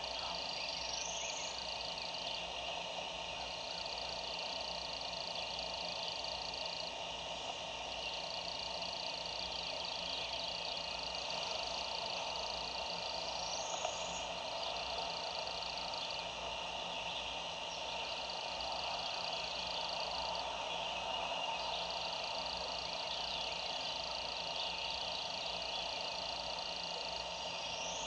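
Springtime woodland ambience: a steady chorus of many small calls, likely frogs. A short higher bird call repeats about every thirteen seconds: near the start, about halfway, and near the end.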